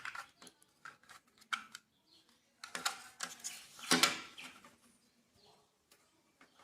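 Irregular small plastic clicks and knocks as a refrigerator fan motor's latch and rubber mount are handled and pressed into place, the loudest about three and four seconds in.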